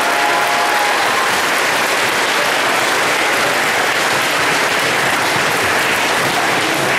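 Audience applauding steadily in a large hall, a sustained even clapping that carries on throughout.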